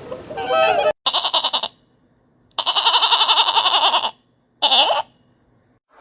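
An animal calling three times in rapid pulsing calls, the middle call the longest, with silence between them.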